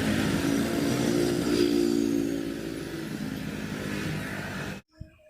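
A loud, noisy engine-like vehicle sound with a steady pitched hum in the middle, cutting off abruptly near the end.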